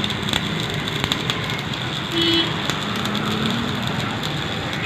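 Steady road traffic noise with scattered clicks and a brief high horn toot about two seconds in.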